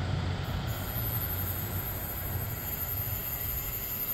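Train running through the station with a steady low rumble and hiss; a thin high whine joins about a second in.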